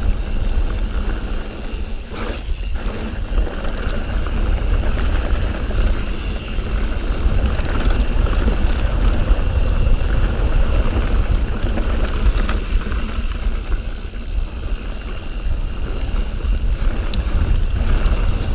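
Wind buffeting the camera microphone, with tyre rumble and a few knocks and rattles from a mountain bike riding downhill on a dirt trail.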